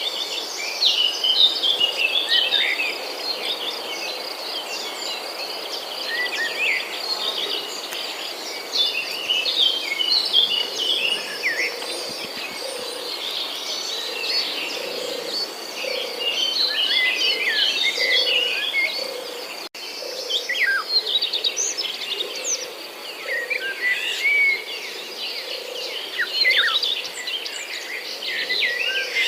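Many small birds chirping and calling, a busy run of short high notes and trills, over a faint steady high tone.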